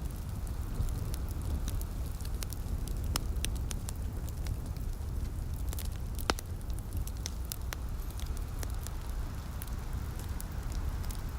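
Wood fire crackling in a fireplace: irregular sharp pops and snaps, one louder pop about six seconds in, over a steady low rumble. A soft hiss of light rain on the windows runs underneath.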